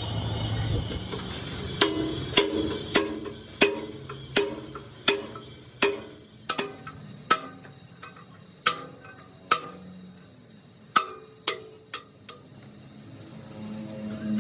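A hammer striking metal, about fifteen sharp blows at an uneven pace, each ringing briefly.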